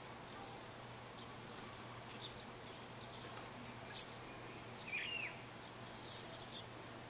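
Faint garden ambience with a few soft, distant small-bird chirps, the clearest a short curved chirp about five seconds in, over a low steady hum. A single soft tick comes about four seconds in.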